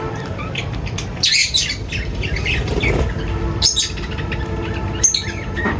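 Small birds chirping in quick, busy bursts, over a steady low rumble.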